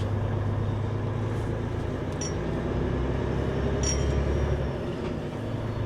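Truck tractor's diesel engine running steadily, heard inside the cab, its low drone getting deeper and stronger from about two seconds in until near the end. A couple of light clinks come over it.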